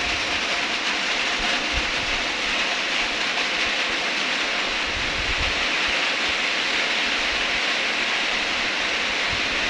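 Steady rain with wind, a dense even hiss, with low rumbling wind gusts coming and going.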